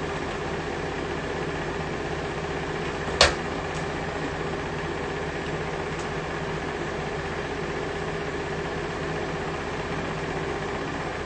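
Steady mechanical hum, like an engine or fan running, with one sharp click about three seconds in.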